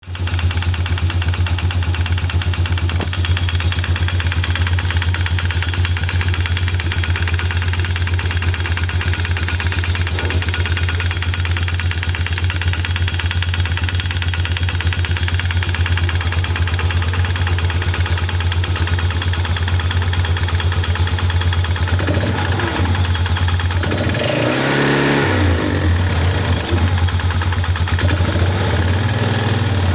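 Polaris 330 Trail Boss ATV's single-cylinder engine idling steadily, carrying a strange noise from the CVT clutch or engine area that the owner says goes away when the throttle is pressed. The throttle is opened once a few seconds before the end, the pitch rising and falling back to idle.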